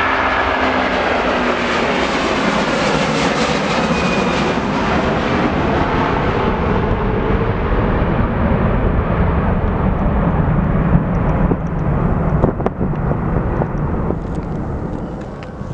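Jet airliner passing close by, its engines loud. The high hiss fades out over the second half and the whole sound slowly dies away near the end, with a short knock about three-quarters of the way in.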